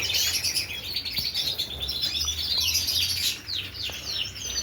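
A crowd of small caged birds, sparrows and finches, chirping and calling over one another in many rapid, overlapping high chirps. A low steady hum runs underneath.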